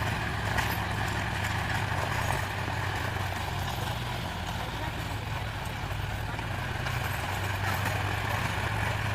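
Tractor diesel engine running at a steady speed, a low even hum.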